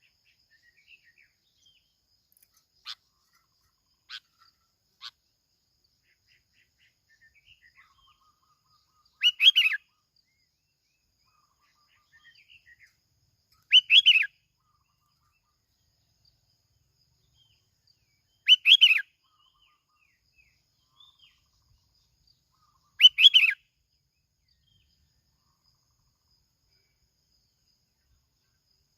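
A bông lau bulbul giving a short call four times, about every four and a half seconds, with a few faint chirps in the gaps.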